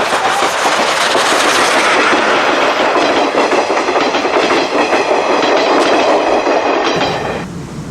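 Steam-hauled train led by C12 66 passing close by, its wheels clattering over the rail joints in a loud, continuous rush. The sound drops sharply about seven and a half seconds in.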